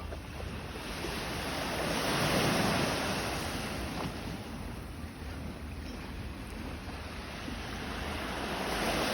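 Sea waves washing in and out, swelling about two seconds in and again near the end, with wind on the microphone.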